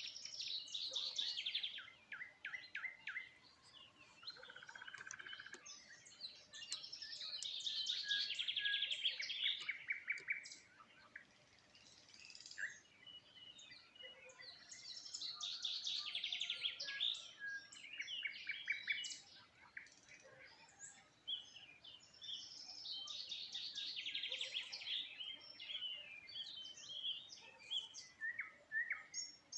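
Songbirds singing: one bird repeats a rapid trilled song of about three seconds, falling in pitch, four times at intervals of seven to eight seconds, with shorter chirps from other birds in between.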